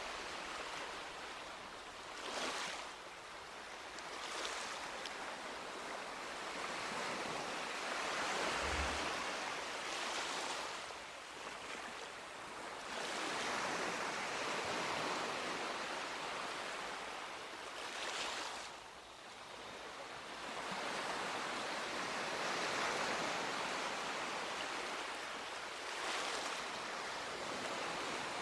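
Sea waves breaking and washing up a beach, the surf swelling and ebbing every few seconds, with a brief low thump about nine seconds in.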